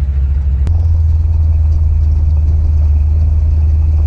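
First-generation Dodge Ram pickup driving, its engine and road noise a steady low drone heard from inside the cab. A single sharp click comes under a second in, after which the drone grows slightly louder.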